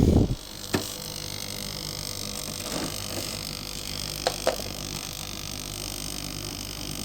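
Blyss dehumidifier running with a steady low hum. The owner calls it a different noise that he can't place. A loud rushing noise cuts off just after the start, a click follows, and two small ticks come about four and a half seconds in.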